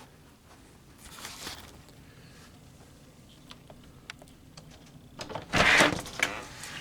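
A door being opened to let a pet out: a few small clicks, then a short loud rush of noise about five and a half seconds in.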